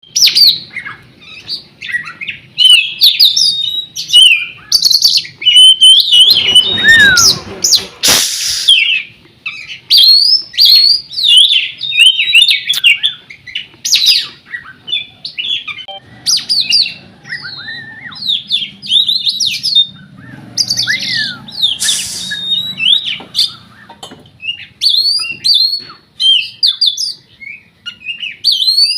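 Oriental magpie-robin (kacer) singing a fast, varied song of whistled notes, glides and chirps that runs almost without pause, broken by two loud harsh rasping notes, about eight seconds in and again near twenty-two seconds.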